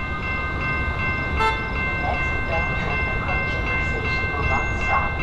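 Inbound Metra express commuter train running through on the middle track, a steady rumble of the passing train, with a steady high ringing tone that breaks off briefly at regular short intervals.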